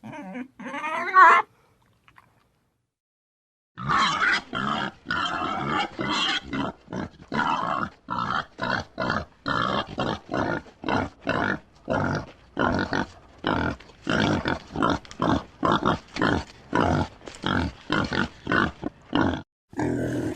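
A pig grunting over and over in short noisy grunts, about two a second, starting about four seconds in. Before that, a brief wavering animal cry, then a pause.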